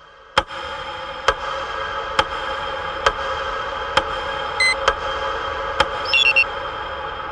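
Sharp ticks at an even pace, a little faster than once a second, over a steady hum. Two short high chirps come near the end.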